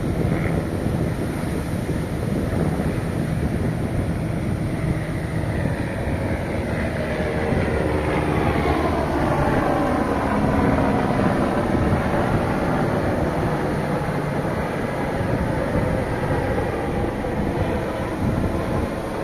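Sea waves washing on the shore with wind on the microphone, and the drone of a passing engine that swells toward the middle and fades again.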